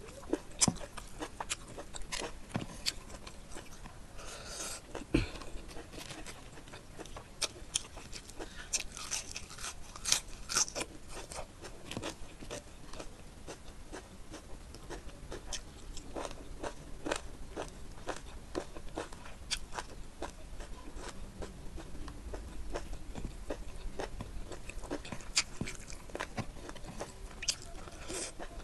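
Close-miked chewing and biting of spicy chicken curry with rice, eaten by hand: irregular wet clicks, smacks and small crunches throughout.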